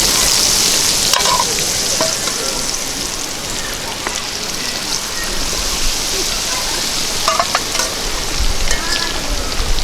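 Heavy rain falling steadily, a dense hiss with a few sharper taps of drops scattered through it.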